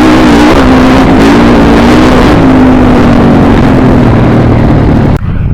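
Dirt bike engines running loud and close, their pitch wavering slightly, cut off abruptly near the end.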